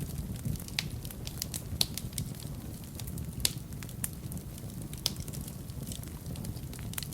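Wood fire burning in a fireplace: irregular crackles and pops over a low, steady rumble of the flames, with the sharpest pops just under two seconds and about three and a half seconds in.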